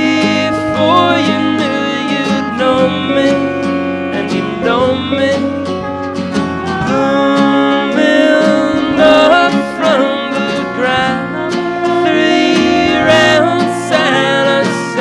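Acoustic folk band playing a guitar-led instrumental passage with plucked strings, steady throughout.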